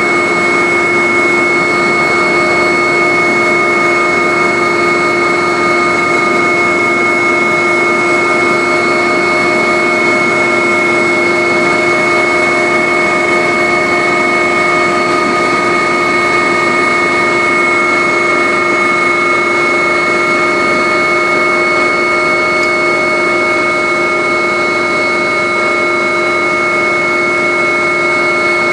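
Agusta helicopter's turbine engine and rotor running steadily in flight: a constant loud rush with several steady whining tones on top.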